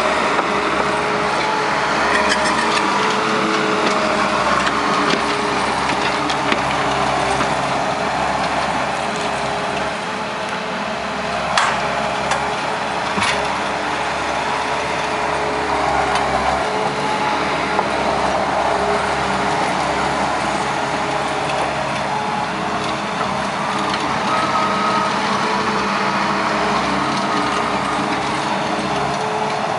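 Takeuchi TL150 compact track loader's diesel engine running steadily under working load while raking roots and sticks, with a couple of sharp cracks a little before halfway.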